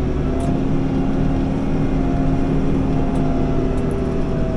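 New Holland B95 backhoe loader's diesel engine running steadily at raised revs while the machine drives carrying a large piece of concrete in the hoe bucket.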